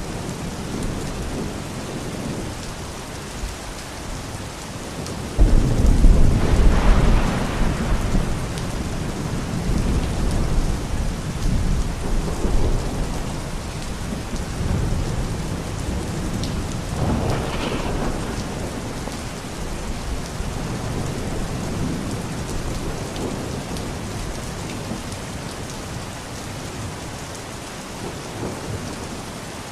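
Steady rain falling, with thunder. A loud clap of thunder breaks in a little over five seconds in and rumbles for several seconds, and a second, weaker roll follows about seventeen seconds in.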